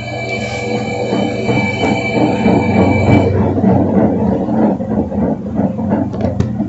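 Electrolux LT10B washing machine running with a steady low hum and a dense rattle, plus a high-pitched whine that cuts off about halfway through; the title says the machine has a problem.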